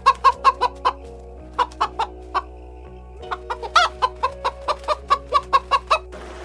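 Chicken clucking: three quick runs of short clucks, about six a second, with one louder, higher squawk near the middle.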